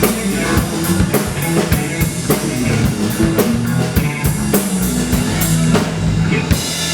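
Live band playing rock music: a drum kit keeps a steady beat with regular cymbal hits, under bass and guitar.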